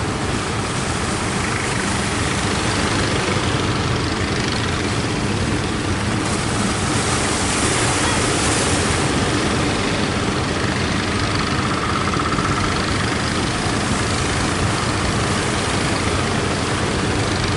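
Strong sea wind blowing hard against the microphone: a steady, loud, rumbling rush.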